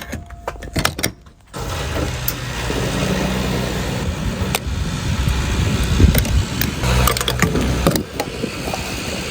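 A car running, with a steady rumble and low hum that comes in about a second and a half in, after a few sharp clicks.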